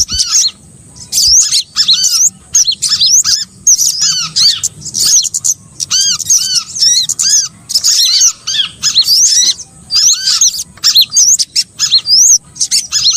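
Bird-trapper's lure recording of small songbirds calling: dense runs of rapid, high, arching chirps, with a lower curved note repeating every second or two and brief pauses between bursts.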